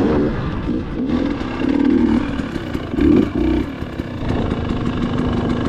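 Dirt bike engine running under throttle, its pitch and loudness rising and falling as the rider works the gas, with louder surges about two and three seconds in.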